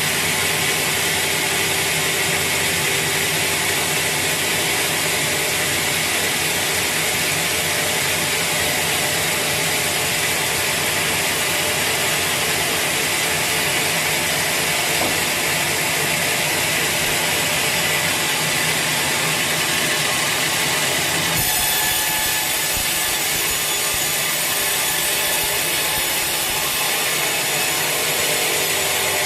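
Sawmill saw cutting through a large teak log, a loud, steady, rasping cut that changes in tone abruptly about two-thirds of the way through.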